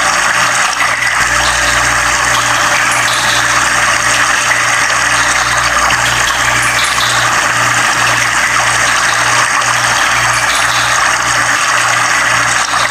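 Steady, loud rush of flowing water, even and unbroken.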